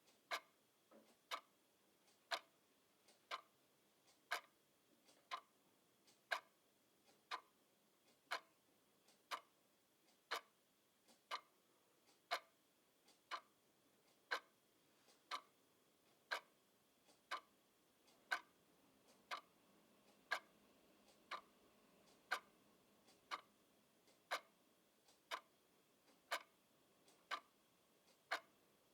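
Clock ticking steadily, a sharp tick about once a second with a fainter tick between some of them.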